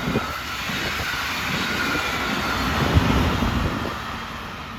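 Short Brightline passenger train rolling past, a steady rumble of wheels on rail that fades away about four seconds in, with wind noise on the microphone.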